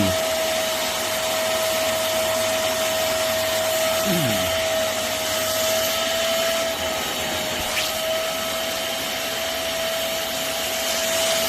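Hoover CleanSlate portable carpet spot cleaner running, its suction motor giving a steady whine at an even pitch that dips slightly about seven seconds in.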